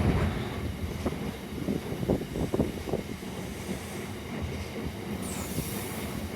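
Freight train behind Class 66 diesel locomotive 66504 rolling through a station, a low rumble with a run of irregular short knocks from the wagon wheels on the track. A brief high hiss comes near the end.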